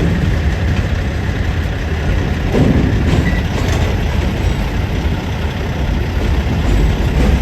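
Wheeling and Lake Erie freight train rolling past, a loud, steady low rumble of wheels and cars on the rails.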